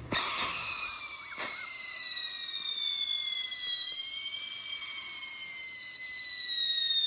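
Whistling firework going off: a loud, shrill whistle that starts suddenly and slides slowly down in pitch, several tones together, with a sharp crack about a second and a half in.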